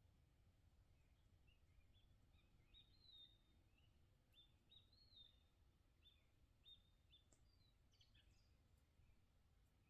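Near silence with faint songbirds chirping: a string of short, high chirps and a few rising notes, over a steady low rumble.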